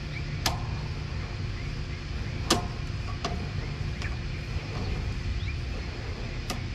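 Sewer inspection camera being fed down a drain line: a steady low rumble with four sharp clicks, the loudest about two and a half seconds in.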